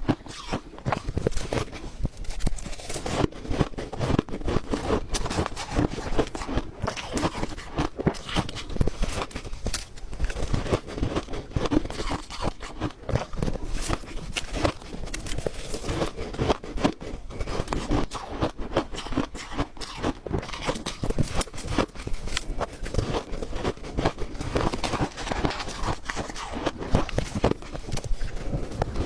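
Ice being bitten and chewed, a dense, irregular run of crunches several times a second.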